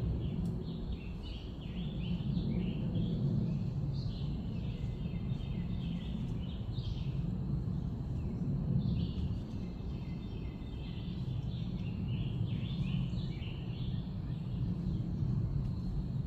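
Songbirds chirping over and over, many short high calls overlapping, above a steady low background rumble.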